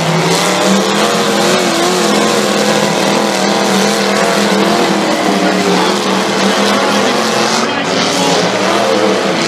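Derby truck engines revving hard, their pitch wavering up and down over a steady low drone, with dense noise of the arena around them.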